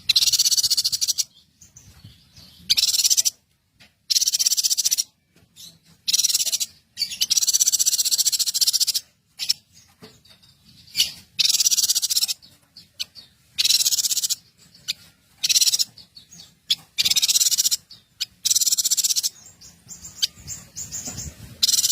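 Small songbird singing in repeated high-pitched trilling bursts, each about a second long, with short gaps between them.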